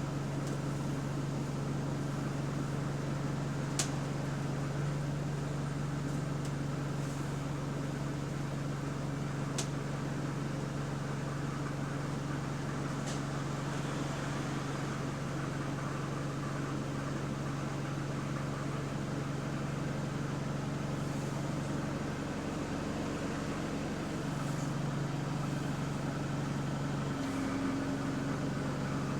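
Interior of a moving bus: a steady low engine drone with a ventilation or air-conditioning hum. The engine note drops briefly twice in the second half, and a few sharp clicks or rattles come in the first half.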